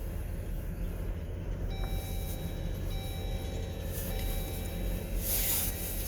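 Vehicle engine running with a steady low rumble. From about two seconds in a faint high steady tone sounds, broken by short gaps, and a brief hiss comes near the end.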